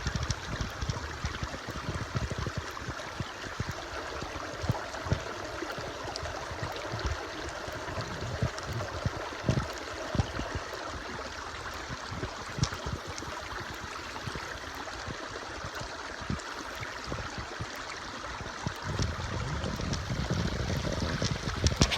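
Stream water running steadily, with irregular low buffeting thumps under it, getting a little louder near the end.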